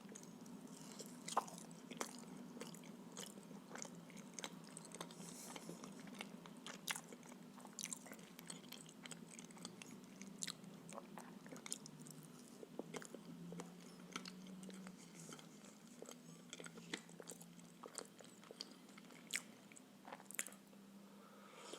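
Close-miked chewing of filled blini: soft, wet mouth clicks and smacks scattered throughout, over a low steady hum.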